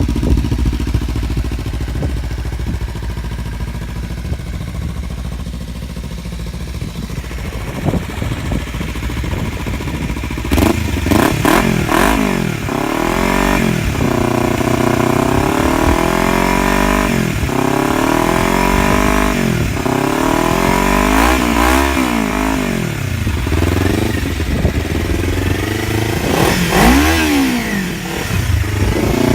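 2017 Kawasaki Ninja 300's parallel-twin engine running through an aftermarket slip-on muffler with the baffle in and its heavy end cap removed: a steady idle, then from about ten seconds in a series of throttle blips, each rev rising in pitch and falling back to idle.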